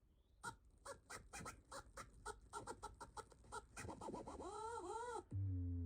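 A rapid series of short clucking bird calls, about six a second, ending in three drawn-out calls that rise and fall. A low steady hum starts just before the end.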